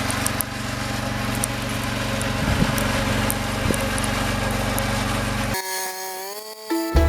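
Engine of a snow-plowing vehicle running steadily. It cuts off abruptly about five and a half seconds in, and a soft rising tone leads into music at the very end.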